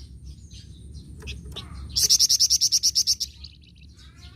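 Songbird (the 'flamboyan' of Indonesian bird-keeping) singing. Scattered high chirps come first, then about halfway through a loud, fast trill of rapidly repeated high notes runs for just over a second.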